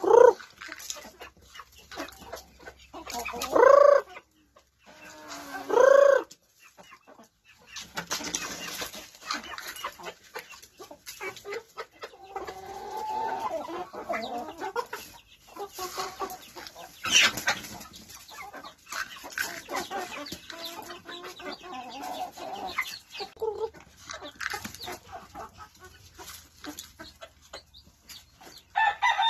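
Chickens clucking, with two loud drawn-out calls about four and six seconds in and a sharp tap partway through.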